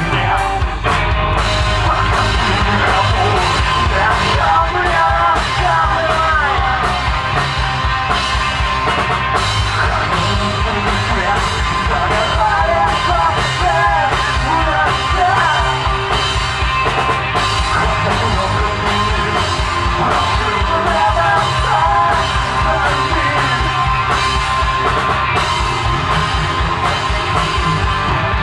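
Live alternative rock band playing: a singer's voice over a drum kit and band, loud and continuous.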